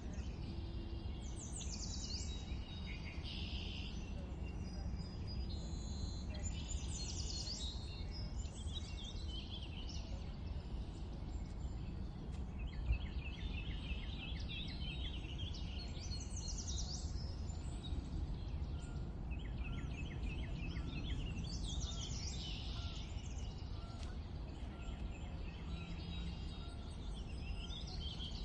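Songbirds singing outdoors: short trilled and chirping phrases, some sweeping down in pitch, come every second or two over a steady low background rumble.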